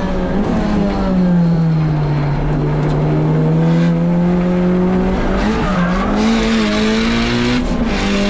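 Turbocharged K24 2.4-litre four-cylinder engine of a Honda S2000 running hard on track; its pitch drops about a second in, then climbs steadily, with a brief dip near the end.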